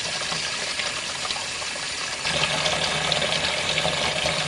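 Water running into the tub of a portable washing machine as it is filled with hot water. About two seconds in, the rush grows louder and a low steady hum joins it.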